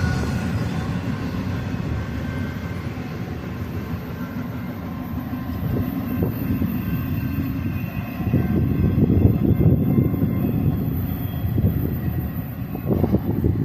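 Freight train cars rolling past, their steel wheels on the rails making a steady low rumble that swells and eases as the cars go by.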